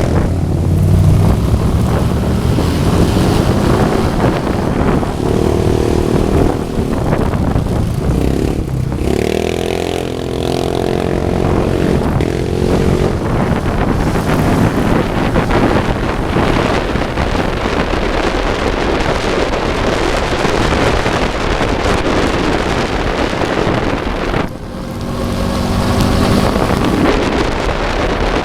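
Motorcycle engines running, rising and falling in pitch as they rev and pull away, with wind buffeting the microphone.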